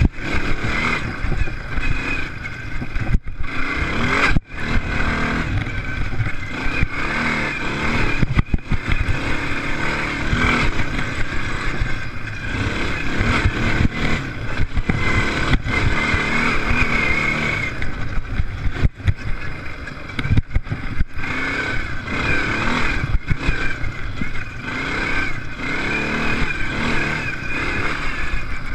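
Off-road racing engines revving hard, a loud continuous exhaust note that rises and falls with the throttle, with a few brief sharp drops in level.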